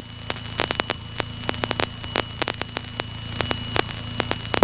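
Crackling static on a light aircraft's headset intercom: dozens of irregular sharp clicks over a steady electrical hum, the interference from a faulty passenger microphone.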